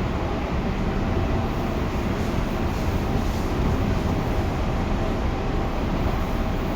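Tobu 9050 series electric commuter train running along the line: a steady rumble of wheels on rail with a faint even tone from the running gear.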